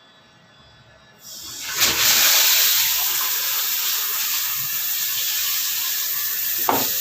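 Shower head spraying water after the tap is opened about a second in: the hiss rises quickly, then holds as a steady spray through the newly fitted hose, which is being tested for leaks. There is a short knock near the end.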